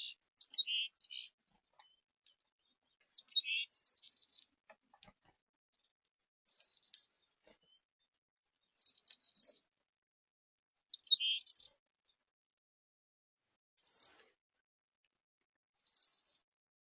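Small songbirds giving high, rapid chattering calls in short bursts, about seven of them, a couple of seconds apart.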